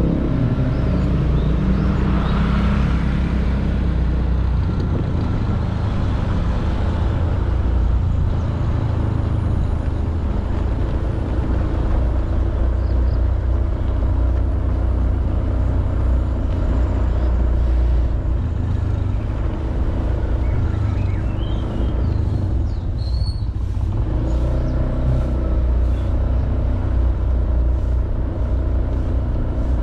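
Honda Beat 110cc single-cylinder scooter engine running steadily while riding, with road noise, briefly easing off about three quarters of the way through before picking up again.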